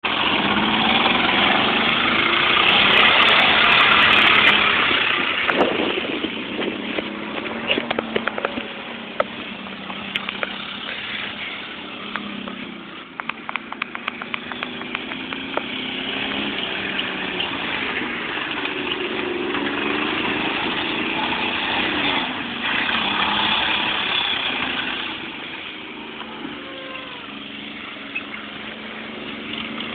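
Pickup truck engine revving and running under load as it drives through mud, loudest in the first few seconds, its pitch rising and falling, with scattered clicks and knocks.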